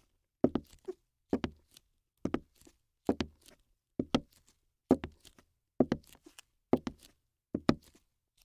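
Rhythmic knocking: a quick double or triple tap on a hard surface, repeated evenly about once a second.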